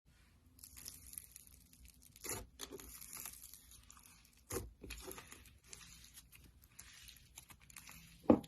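Slime being worked by hand: a steady sticky crackling and crinkling, broken by three louder pops.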